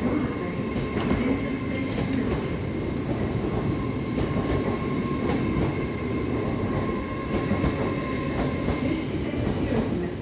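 Hitachi Azuma intercity train running along the platform: a steady rumble of wheels and running gear with a steady high whine, and faint clicks as the wheels pass over rail joints.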